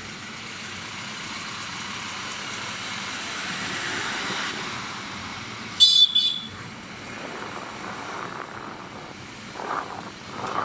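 A vehicle passing on a road, a steady noise that swells and then fades, with a short shrill sound about six seconds in.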